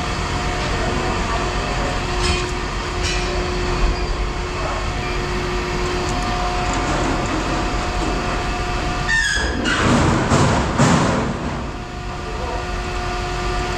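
An engine running steadily with a constant hum. A louder, rougher noise swells for about two seconds around nine to eleven seconds in.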